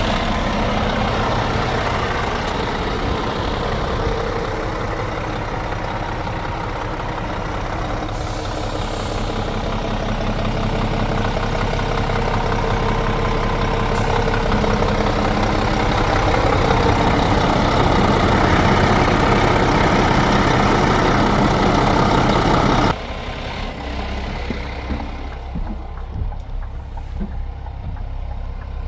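Scania G450 truck's six-cylinder diesel engine running at idle, with a brief hiss about eight seconds in. The sound gradually grows louder, then drops suddenly to a quieter, duller engine sound about three-quarters of the way through.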